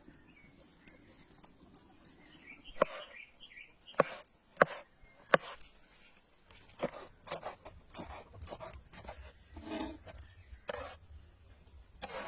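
A series of sharp, irregular knocks and taps, loudest a few seconds in, with birds chirping faintly early on.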